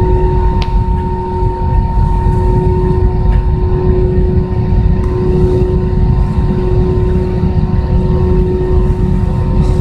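Airbus A320 cabin noise before takeoff: a steady low rumble from the running engines and air systems, with a constant hum through it.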